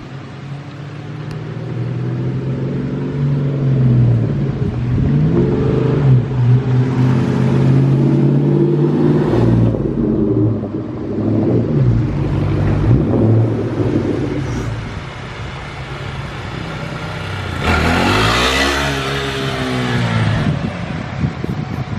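Manual-transmission Ford Mustang engine revving up and easing off over and over as it is driven through the gears, loudest as the car passes close by near the end. It is driven by a beginner who has just been hard on the clutch.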